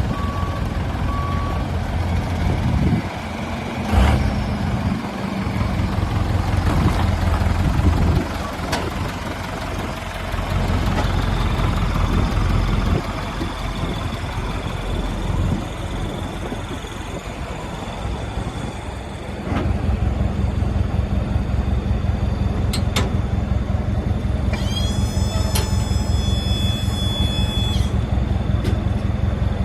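Mitsubishi Fuso FE box truck's four-cylinder diesel engine running, with a sharp knock about four seconds in and a louder, steadier note from about two-thirds of the way through. A high electronic tone sounds for about three seconds near the end.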